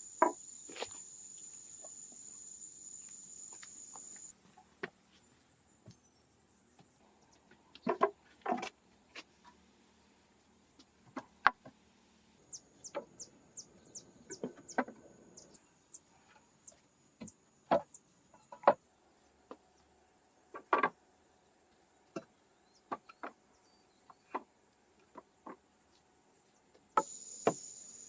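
Scattered sharp knocks and clacks at irregular intervals, with a quick run of high ticks about halfway through. A steady high insect trill sounds during the first four seconds, drops out, and returns near the end.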